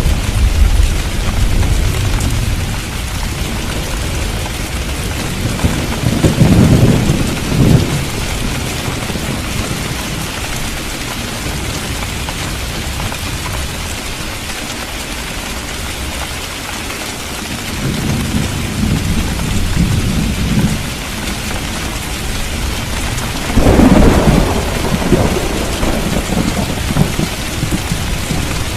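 Steady heavy rain falling on the street, with rolls of thunder rumbling through it several times; the loudest roll comes near the end.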